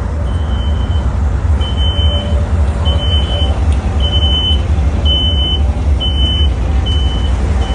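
Diesel locomotive engine running with a deep, steady rumble. A high electronic beep repeats about once a second over it and grows fainter near the end.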